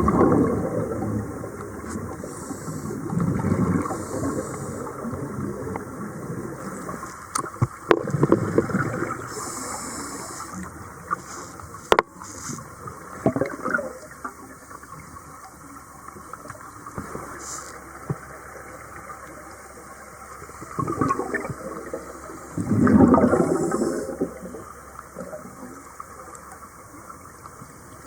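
Scuba diver's exhaled bubbles gurgling up from the regulator underwater, in irregular surges separated by quieter stretches, with a couple of sharp clicks.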